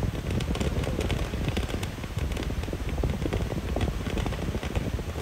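Fireworks going off near the ground: a dense, continuous crackle of many rapid pops.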